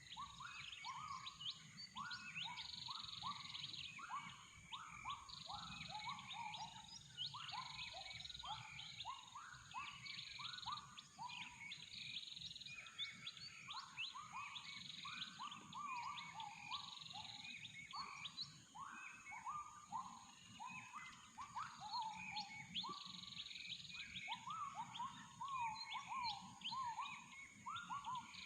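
Many birds calling over one another in a morning chorus, a dense run of quick rising chirps, with a steady high-pitched hum behind them.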